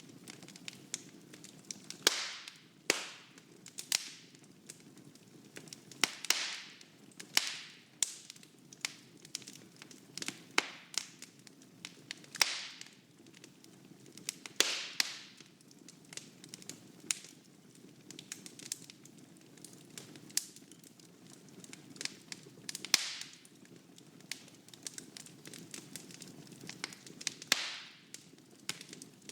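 Wood fire burning in a fireplace, crackling and popping irregularly, with sharp snaps every second or two and brief hissing flare-ups.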